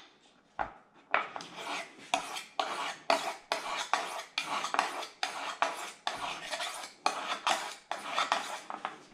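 Knife cutting pork belly into small cubes, its blade knocking down onto the cutting board about two to three times a second in a steady run.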